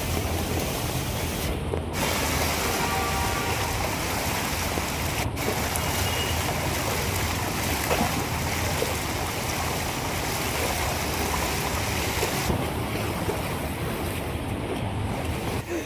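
Steady rushing noise of rain and running water.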